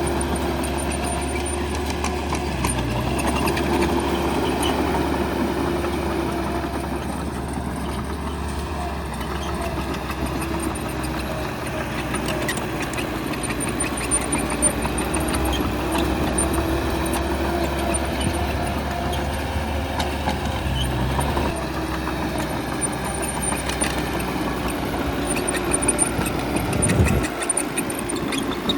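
Diesel engine of heavy earthmoving machinery running steadily, its note swelling and easing as it works, with a few sharp clanks and a brief louder surge near the end.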